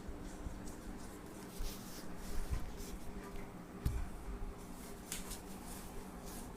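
Quiet room tone with a faint steady hum and a few small scattered clicks and rustles.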